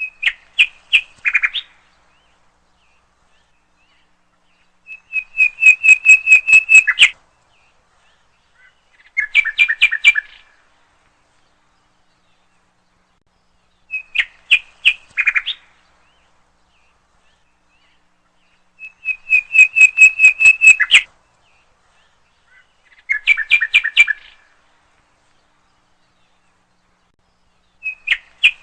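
A songbird singing short phrases of rapid repeated chirps, each a second or two long with pauses between. The same sequence of three phrases comes round twice, about fourteen seconds apart.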